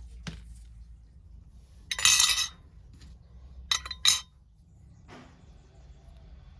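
Small metal tools and screws being handled on a workbench: a brief metallic rattle about two seconds in, then two sharp clinks in quick succession.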